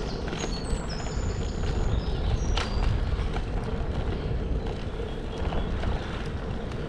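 Outdoor ambience: a steady low rumble with a few short, high chirps in the first three seconds and some light clicks.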